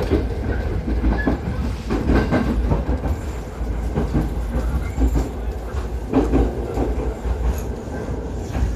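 Inside a JR 209-series electric commuter train car at speed: a steady low rumble of wheels and running gear, with the wheels clacking over rail joints every second or two.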